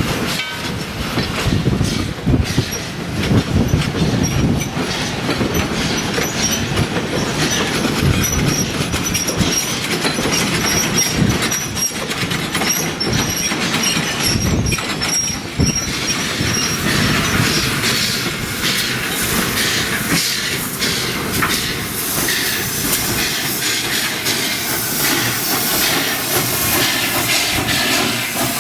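Railroad cars rolling over jointed track with a steady clack and clank of wheels and couplers, and a thin, intermittent wheel squeal through the first half. A high hiss builds over the second half.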